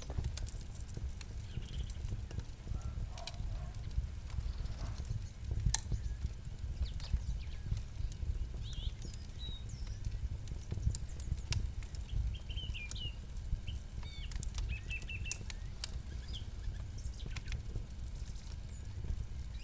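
Campfire crackling, with irregular sharp pops and snaps over a steady low rumble. Small birds chirp briefly now and then in the background.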